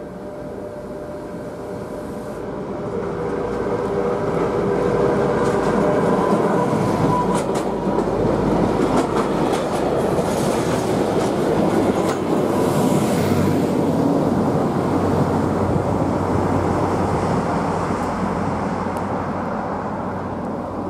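Rail-washing train hauled by a Y8000 diesel shunting locomotive passing close by. Its running grows louder as it approaches, and the wagons' wheels clatter over the rail joints as they go by. The sound eases off near the end as the train moves away.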